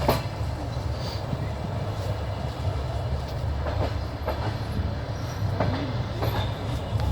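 Passenger train running on the track, heard from inside the carriage: a steady low rumble with clickety-clack wheel knocks over the rail joints, coming in pairs.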